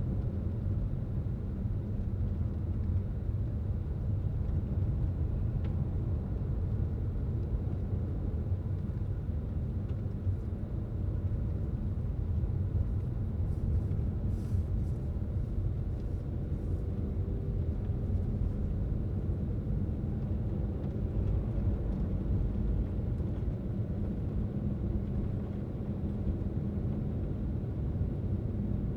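Steady low rumble of a car driving along the road: tyre and engine noise, with a few faint ticks midway.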